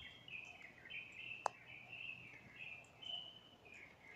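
Small birds chirping in many short high notes, with one sharp click about a second and a half in.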